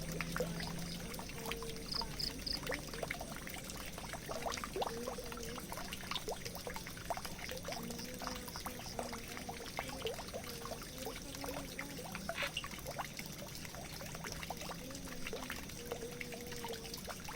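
Water pouring and trickling steadily, with many small drips and splashes scattered through it.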